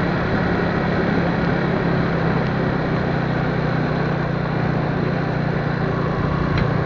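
Vehicle on the move: a steady engine hum under even road and wind noise.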